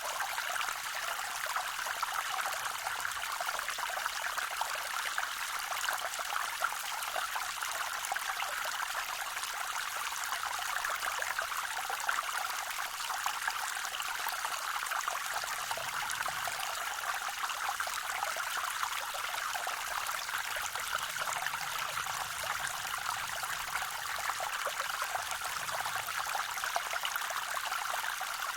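Small waterfall on a forest creek: water falling and running steadily over rocks, a continuous splashing, trickling rush with little low rumble.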